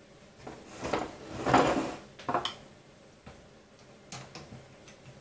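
Hands handling small hard parts: plastic and metal clattering and scraping while M4 screws and nuts are worked into the extruder body to fasten it to the 3D printer's X carriage. The clatter is loudest in the first half, followed by a few sharp clicks.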